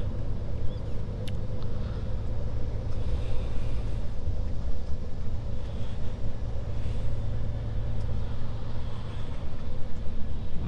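Scania S500 truck heard from inside the cab while driving: a steady diesel engine drone with road and tyre noise.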